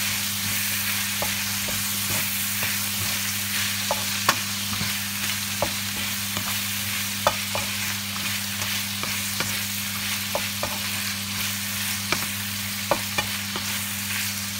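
Chicken pieces, mushrooms, garlic and onion sizzling in oil in a nonstick wok while a wooden spatula stirs them, with scattered light clicks of the spatula against the pan.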